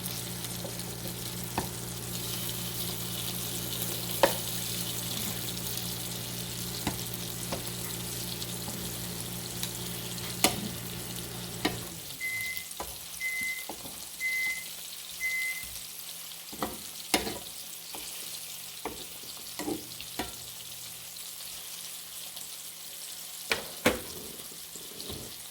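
Chicken strips sizzling as they fry in olive oil in a pan, with a microwave oven humming alongside. About halfway through the hum stops and the microwave beeps four times, then sharp clicks and knocks follow as the chicken is turned with tongs.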